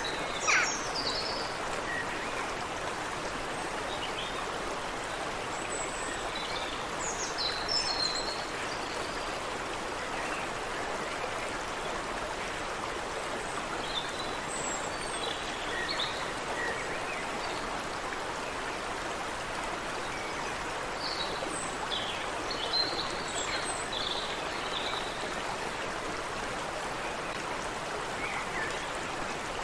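Creek water running steadily, with birds chirping in short, scattered calls above it.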